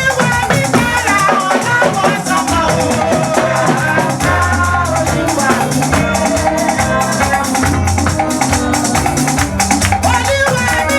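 Live church band music with a shaker or rattle keeping a steady fast rhythm over drums, bass and keyboard.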